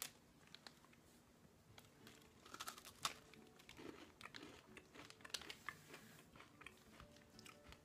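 Faint crunching and chewing of a crunchy cracker, with soft crinkles from its wrapper; scattered small crackles rather than a steady sound.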